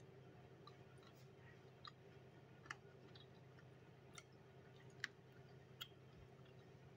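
Faint, sharp mouth clicks of a person chewing roast chicken, about six of them spread out, over a low steady hum.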